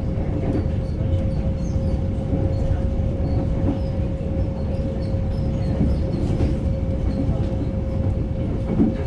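Melbourne Metro electric suburban train running between stations, heard from inside the carriage: a steady low rumble with a constant hum over it.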